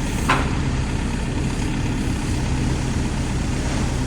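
Heavy diesel engine idling steadily, from the truck or the digger being moved into place, with a short sharp squeak about a third of a second in.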